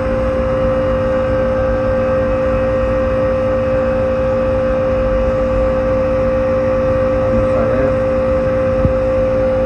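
Air-conditioning condensing unit running steadily: the compressor, fitted with a hard start kit, gives a constant hum over a rushing noise. The unit is running properly, with a good superheat.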